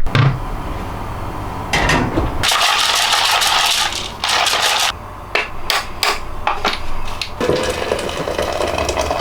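Kitchen sounds of coffee being made: clattering and knocking of utensils and containers, with a steady rushing noise lasting about a second and a half a few seconds in.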